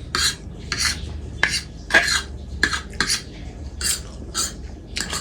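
Metal cutlery scraping and clinking against a dish in about a dozen short, irregular strokes, the sound of food being stirred or picked up from a bowl.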